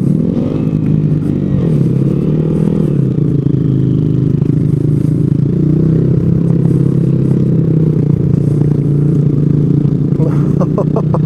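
Small 125cc single-cylinder motorcycle engine running under throttle on a muddy trail, its pitch rising and falling in the first few seconds and then holding steady.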